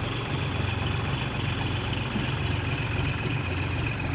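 Tractor engine running steadily at an even, unchanging speed.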